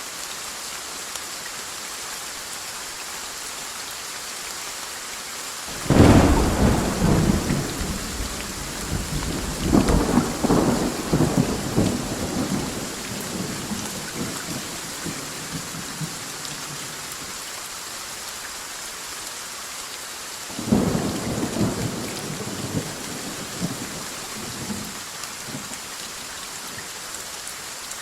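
Steady rain with two peals of thunder: a sudden loud clap about six seconds in that rolls on in rumbles for several seconds, and a second, weaker peal about twenty seconds in that rumbles off over a few seconds.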